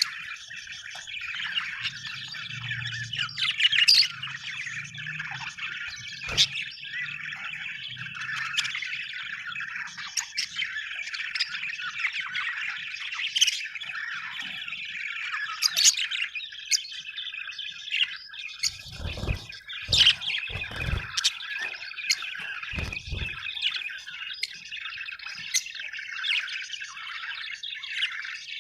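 A group of budgerigars chattering continuously with rapid chirps, warbles and sharp squawks. A few dull low thumps come about two-thirds of the way through.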